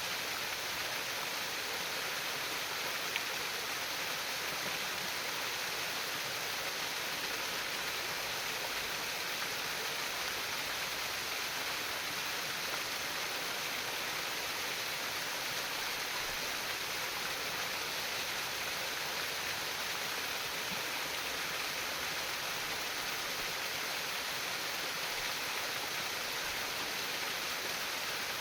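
Steady trickling of a shallow stream, a constant splashing hiss with one small tick about three seconds in.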